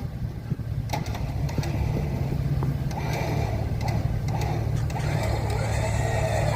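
A motor vehicle's engine idling steadily, with a few light clicks over it.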